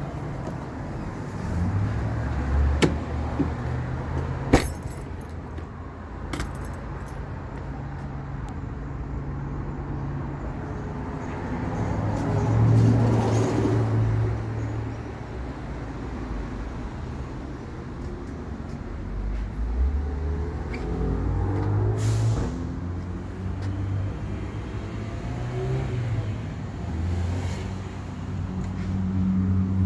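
Bucket truck's engine running, its speed rising and falling several times, with a few sharp clicks along the way.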